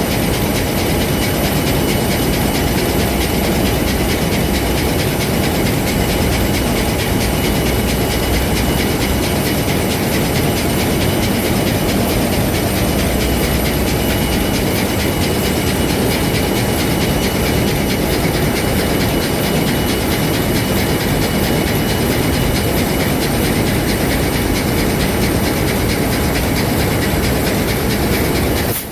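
Ship's main diesel engine running steadily under load in the engine room: a loud, unbroken mechanical clatter with a steady high whine over it.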